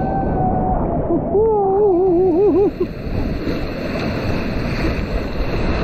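Rough sea surf with strong wind buffeting the microphone, a steady noisy rush. In the first three seconds a wavering, warbling pitched sound rides over it.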